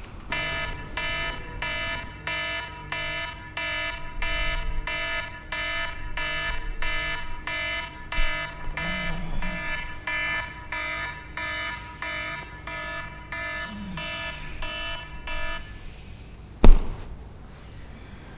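Smartphone alarm beeping in a fast repeating pattern of short multi-tone beeps, about two a second, until it cuts off suddenly near the end as it is switched off. A single loud thump follows shortly after.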